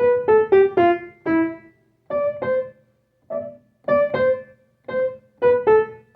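Keyboard playing a melody in single struck piano-like notes that ring and fade, in short phrases with brief pauses between them; an instrumental break in a song.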